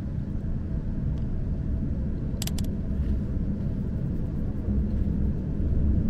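Kamui limited express electric train running, heard inside the passenger cabin as a steady low rumble that grows slowly louder as the train moves along the platform. A quick double click about two and a half seconds in.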